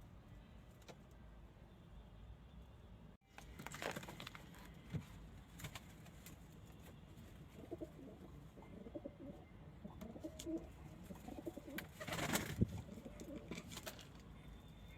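Pigeons cooing softly in low, wavering calls through the middle and later part, with a few rustling noises, the loudest a little before the end.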